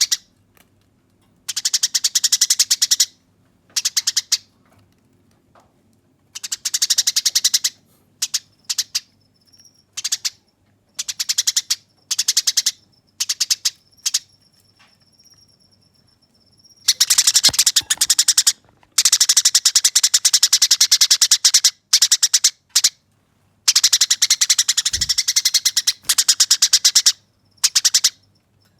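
Eurasian tree sparrow giving harsh, rapid fighting chatter: fast trains of sharp chirps in bursts of a second or two, with longer unbroken runs in the second half. A faint thin steady whistle sounds in some of the quiet gaps.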